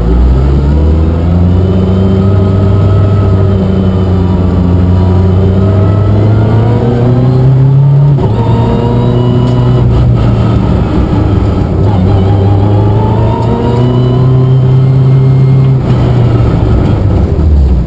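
Suzuki Swift rally car's engine under hard acceleration on a stage. Its pitch climbs slowly, drops sharply about eight seconds in at a gear change, climbs again, and falls back near the end.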